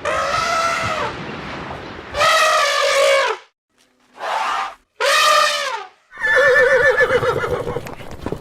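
A series of about five loud animal calls, each rising and falling in pitch. The last one, starting about six seconds in, is a long trembling horse whinny.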